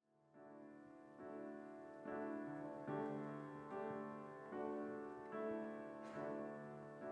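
Piano-sounding keyboard playing slow sustained chords as a song introduction, fading in from silence and re-struck about once a second. A brief soft swish sounds about six seconds in.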